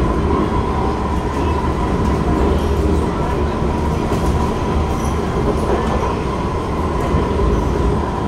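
Inside a C151 metro train car running between stations: a steady rumble of the wheels on the track, with a steady high tone running through it.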